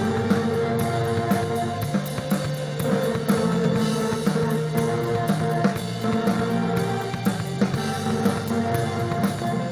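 Instrumental psychedelic rock played by a band: a drum kit keeps a steady beat under long sustained notes.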